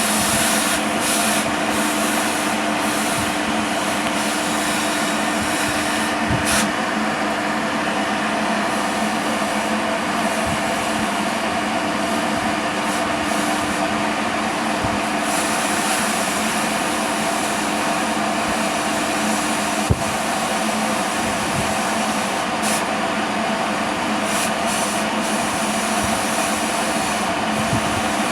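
Machinery running steadily, a constant hiss with a low hum, with scattered light clicks and one sharp knock about twenty seconds in.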